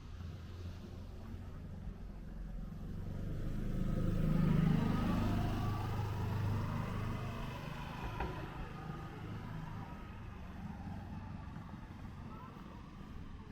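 A car driving past, its engine and tyre noise growing louder to a peak about four seconds in and then slowly fading away.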